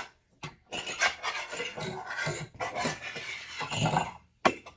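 A whisk beating eggs and cream in a shallow dish, with quick, irregular scraping strokes against the dish that pause briefly near the end.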